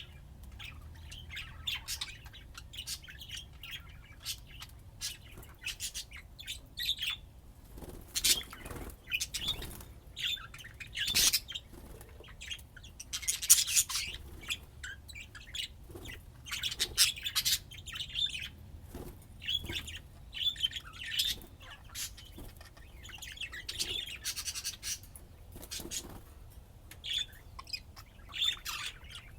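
Budgerigars chirping and chattering continuously: a quick flurry of short, high chirps with louder bursts now and then.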